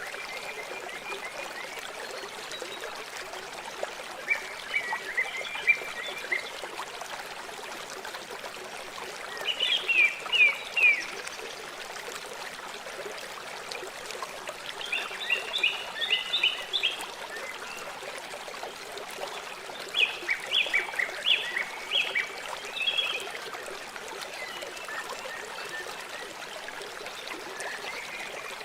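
River water flowing steadily, with a bird calling in short bursts of quick chirps four times over it.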